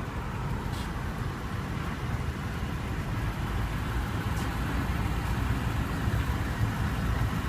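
Steady low rumble of motor-vehicle noise in the background, with no single event standing out.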